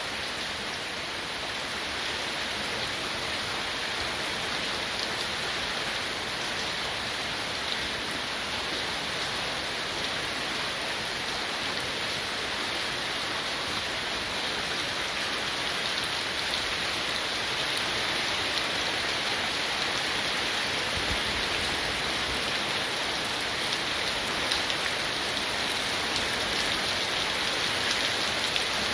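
Heavy monsoon rain falling steadily, an even, unbroken wash of rain on surfaces.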